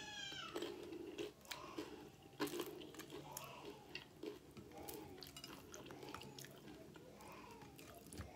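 Close-up mouth sounds of someone eating loaded nachos: a few sharp crunches of the tortilla chips in the first few seconds, the loudest about two and a half seconds in, then steady rhythmic chewing.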